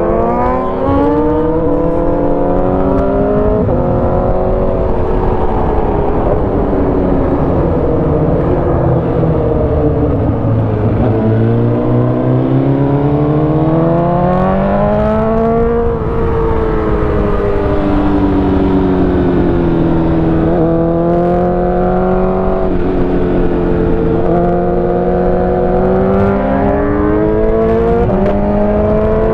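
Sport motorcycle engine running under way, its pitch climbing and easing off several times as the revs rise and fall through the ride.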